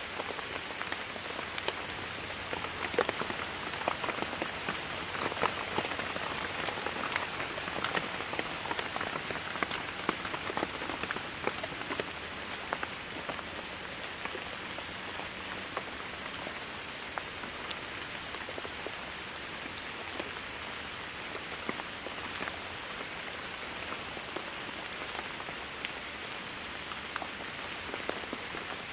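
Steady rainfall with many distinct drops striking a surface, a little heavier and louder for the first ten seconds or so.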